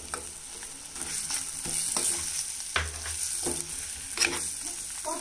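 Pepper chicken sizzling in an earthenware clay pot, a steady high hiss. A handful of short knocks and scrapes are spread through it.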